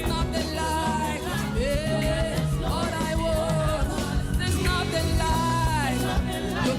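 Slow gospel worship music led by piano, with a voice singing long, drawn-out notes that glide between pitches.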